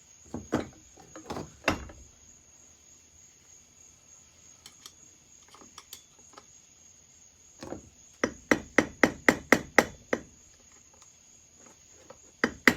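Hammer tapping on a stuck part of a Pioneer Farmsaw chainsaw during teardown: a few separate taps, then a quick run of about nine taps some eight seconds in, and another run starting near the end.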